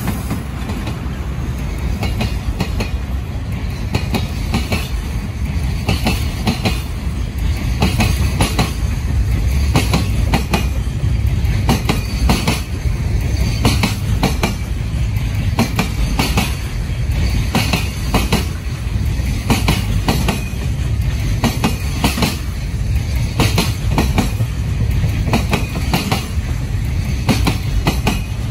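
A JR Freight container train hauled by an EH500 electric locomotive passing close by. Its wagons make a steady low rumble, and the wheels clack over the rail joints again and again.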